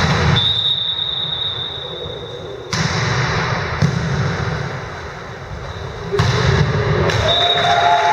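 A volleyball being struck, twice, about two and a half and six seconds in, each hit ringing on in the echo of a sports hall. A thin high tone sounds briefly near the start and again near the end.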